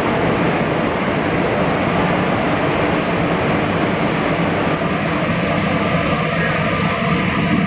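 Electric multiple-unit local train rolling along the platform: a steady, loud rumble of wheels on rail, with a few short high clicks about three seconds in.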